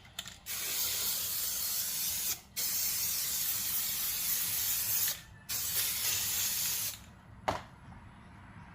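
Aerosol can of spray adhesive hissing in three long bursts, followed by a single short click near the end.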